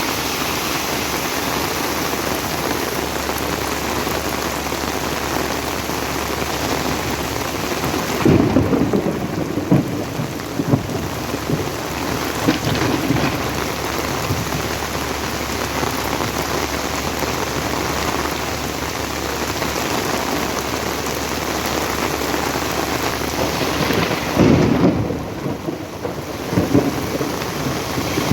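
Heavy rain pouring down steadily as a dense hiss, with two louder low rumbles, about eight seconds in and again near the end.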